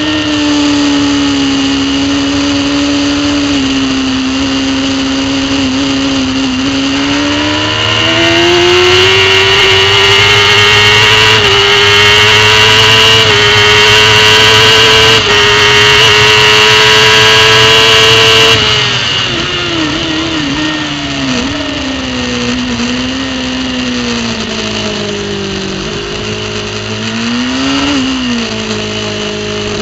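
Superbike engine heard from on board: it accelerates hard with the pitch climbing for about ten seconds, then the throttle closes and the pitch falls, with several quick revving blips as the rider shifts down under braking, and another blip near the end.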